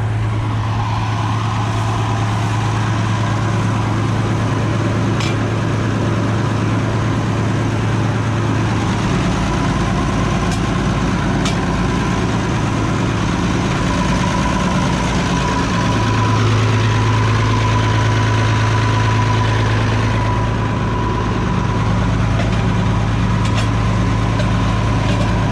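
Oliver 7300 combine running steadily with a deep engine hum and a faint high whine over it, swelling a little louder about two-thirds of the way through, with a couple of faint clicks.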